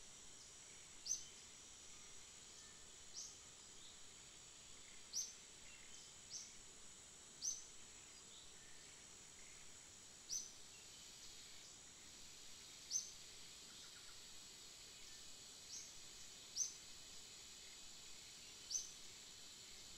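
Quiet outdoor ambience: a bird gives a short, high, rising chirp every one to three seconds over a faint, steady, high insect-like hiss.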